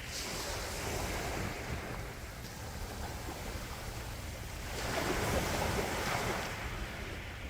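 Calm sea waves washing on the shore, with one wave swelling in about five seconds in and then easing off.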